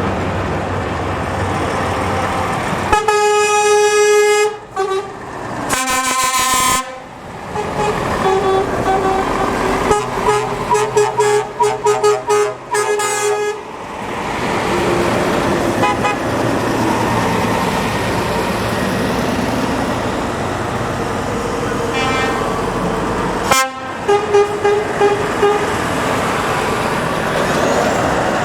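Lorries passing with their horns sounding: a few long blasts, then a run of short repeated toots, and more toots near the end, with heavy truck engines and traffic noise between the horn blasts.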